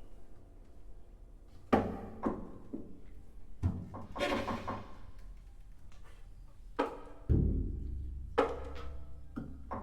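Sparse contemporary chamber ensemble music for flute, clarinet, violin, cello, percussion and piano: isolated sharp percussive attacks with gaps between them, a brief noisy cluster near the middle, and a deep low note a little after seven seconds that rings on.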